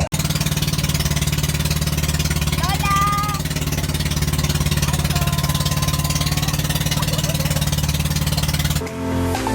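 Pump boat engine running steadily with a fast, even chugging. A voice calls out briefly about three seconds in.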